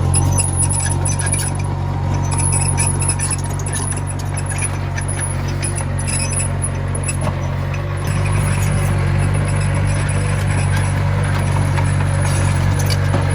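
Komatsu mini bulldozer's diesel engine running steadily under work, with light metallic clinking and rattling from the machine; the engine gets a little louder about two-thirds of the way through.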